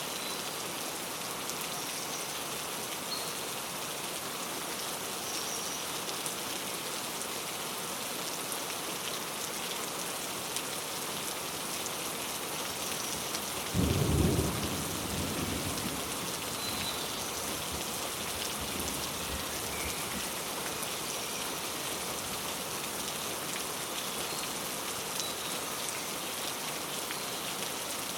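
Steady rain falling, with faint short bird chirps scattered through it. About halfway through, a sudden low rumble of thunder, the loudest sound, dies away over a couple of seconds.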